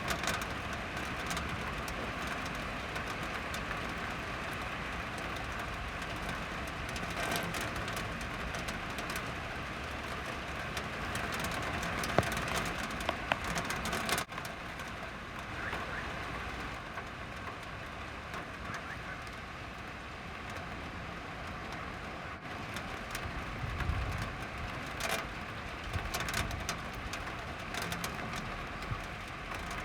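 Steady rain falling, with the hiss of traffic on the wet road and scattered drops ticking on surfaces.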